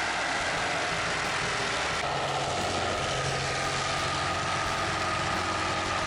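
Electric power saw running continuously while cutting out an opening, a steady whine that sinks slightly in pitch as it works under load.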